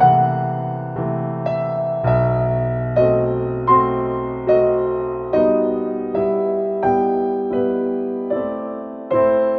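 Gentle background piano music: single struck notes, about one or two a second, each fading before the next.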